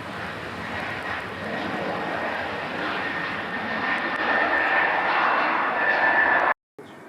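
Jet airliner's engines growing steadily louder as the aircraft draws near, with a thin high whine running through the noise. The sound cuts off suddenly near the end.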